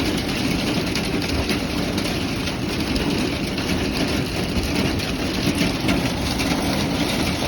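Hail and rain pelting a car's roof and windshield, heard from inside the car: a steady, dense patter of many small impacts.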